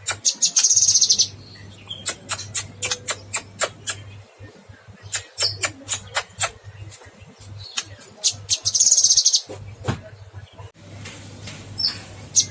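Cucak kinoy singing: series of sharp, high chips in quick succession, broken twice by a fast buzzy trill, about half a second in and again around nine seconds in. A steady low hum runs underneath.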